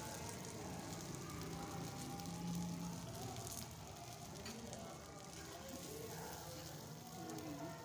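Masala-stuffed brinjals sizzling in oil on a flat iron tawa while they are turned over with metal tongs.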